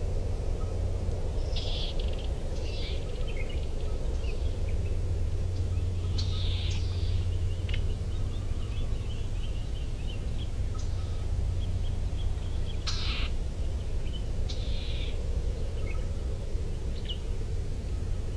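Wild birds giving short, scattered chirps and calls over a steady low rumble.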